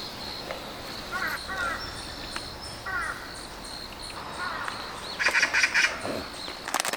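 Birds calling: a few short harsh calls, then a louder rapid run of calls about five seconds in. Faint high chirping repeats throughout, and there is a brief clatter at the very end.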